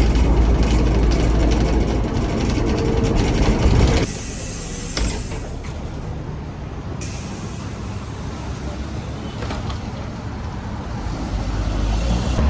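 Heavy road vehicle's engine rumbling low. About four seconds in the rumble drops away abruptly and a short air-brake hiss follows, then quieter steady traffic noise.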